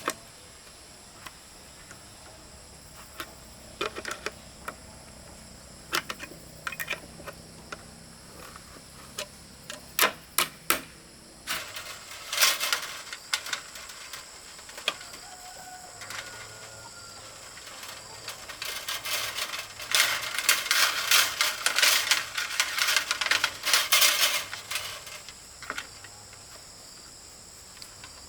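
Scattered sharp knocks and clicks, then a dense run of rapid clicking lasting several seconds, over a steady high-pitched hum.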